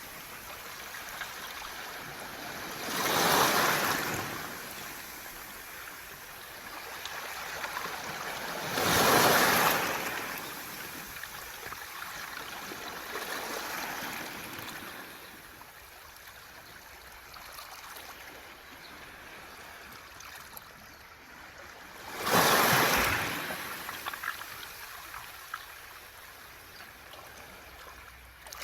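Waves washing onto a beach of round mongdol pebbles. Three big surges come about 3, 9 and 22 seconds in, with a smaller one in between, and after each the water drains back with a crackling trickle through the stones.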